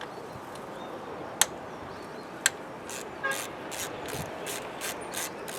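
Two sharp metal clicks, then from about three seconds in a socket ratchet clicking in a steady rhythm, about three clicks a second, as it works a bolt loose.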